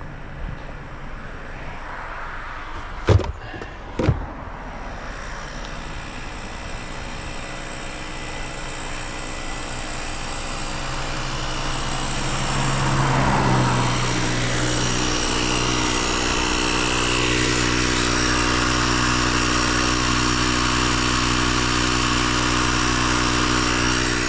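Two sharp bangs about a second apart, then a motor vehicle running, its engine and road noise building over several seconds and then holding steady.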